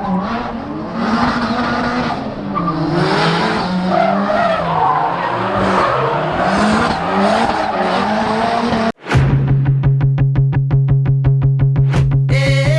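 Drift car's engine revving, its pitch rising and falling, with tyres squealing and skidding. About nine seconds in this cuts off abruptly and electronic music with a steady pulsing beat takes over.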